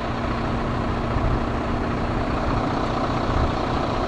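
Heavy recovery truck's diesel engine running at steady revs, with a constant low hum.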